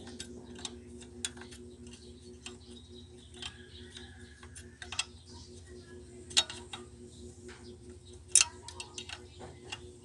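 Irregular metallic clicks and taps of hand tools and parts being handled during engine repair work, over a steady low hum.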